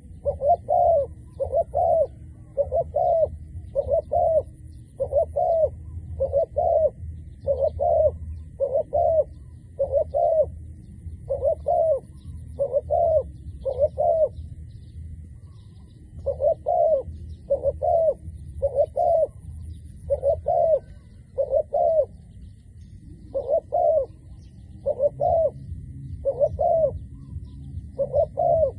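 Decoy dove cooing over and over: short doubled coos about every second and a half, with two brief pauses along the way, over a steady low rumble.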